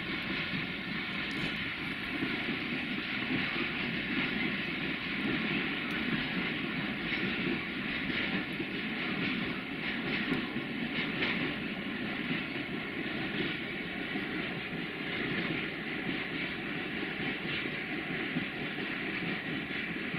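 Passenger train rolling along the station tracks: a steady wheel-on-rail noise, a little louder about halfway through.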